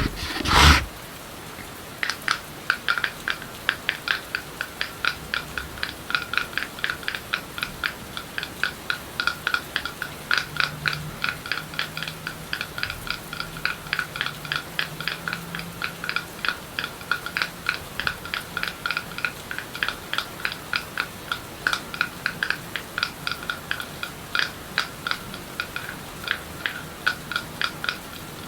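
Rapid, even tapping on a hard object that rings at one clear pitch, about four taps a second, with a brief loud rustle at the very start. Underneath runs a steady hiss of rain sound.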